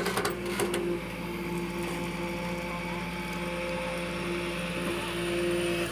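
A motor running steadily with a constant whining hum, with a few short clicks in the first second.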